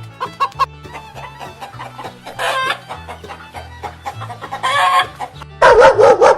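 Chickens clucking and a rooster crowing, the loudest wavering crow near the end, over background music with a stepped bass line.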